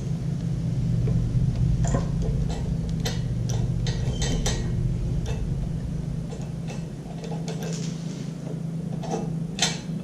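Irregular metallic clicks and clinks of a small wrench and carburetor parts being handled on a lawnmower engine, with one sharper click near the end, over a steady low hum.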